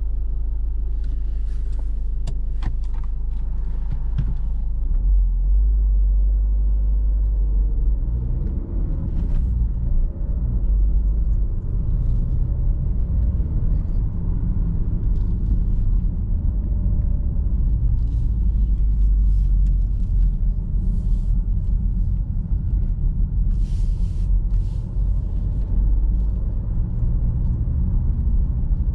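The Ford Focus's 1.5 TDCi four-cylinder diesel engine running, heard from inside the cabin as a steady low rumble that grows louder about five seconds in as the car drives off. A few short clicks in the first few seconds.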